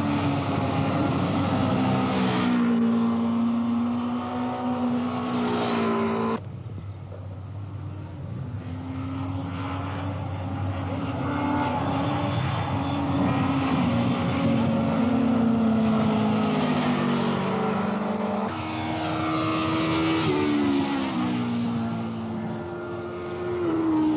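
Superbike racing motorcycle engines at high revs, their pitch climbing and dropping repeatedly as the riders shift gears and pass. The sound changes abruptly about six seconds in.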